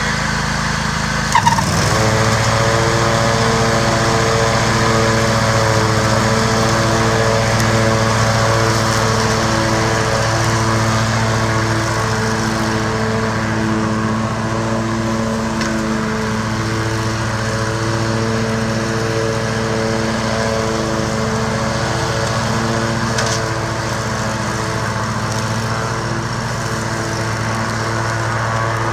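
John Deere L120 lawn tractor's engine running steadily while it mows. A brief clunk comes about a second and a half in, and the engine note steps up after it.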